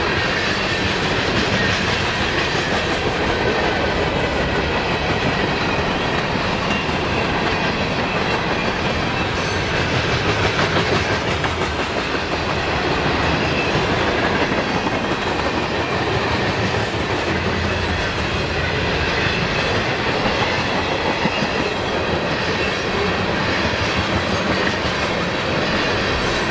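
CSX freight train passing close by, its cars rolling past with a steady, loud rumble and rattle.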